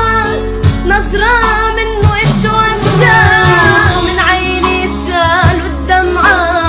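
A woman singing an Arabic song with melismatic, wavering pitch over instrumental backing and a steady low bass.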